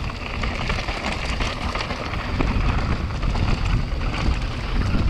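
Wind buffeting an on-board camera microphone over the clattering of a mountain bike and its tyres on loose, dusty ground during a fast downhill run.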